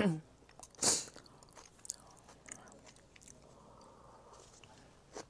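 Close-miked eating sounds: a loud bite or slurp right at the start and another about a second in, followed by soft chewing with small wet mouth clicks.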